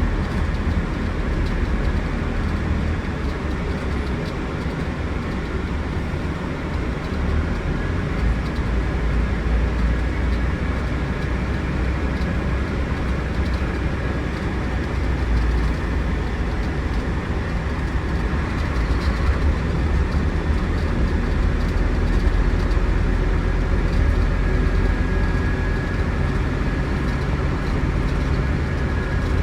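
Scania Irizar Century coach with its 9.3-litre Scania DC09 engine under way, a steady low engine rumble mixed with road noise, holding an even level throughout.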